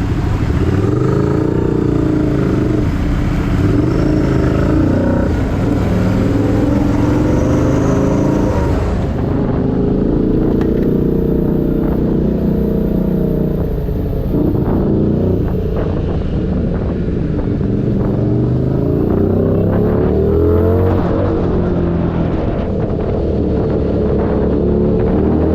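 Keeway SCR 250's V-twin engine through a Racefit free-flow exhaust, revving up and falling back again and again, with its pitch climbing and dropping every few seconds.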